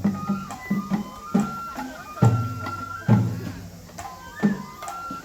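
Japanese festival hayashi music for a lion dance: a high bamboo-flute melody of long held notes over heavy taiko drum strokes about once a second.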